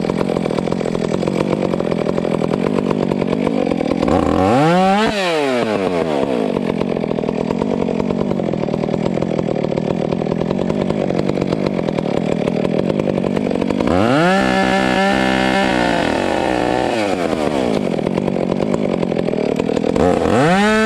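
Gas chainsaw idling, revved up briefly about four seconds in, held at high revs for a few seconds in the middle, and revved up again near the end.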